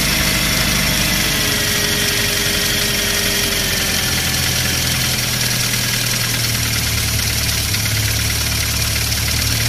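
Volkswagen Golf 2 Jetta engine on a DAAZ Solex 53-20 carburettor idling steadily on a cold start, warming up. The idle note shifts about four and five seconds in as the choke is eased off gradually.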